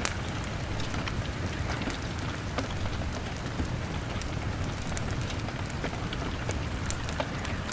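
Steady rain beating on a window pane, with a log fire crackling: sharp, irregular pops scattered over the even hiss of the rain.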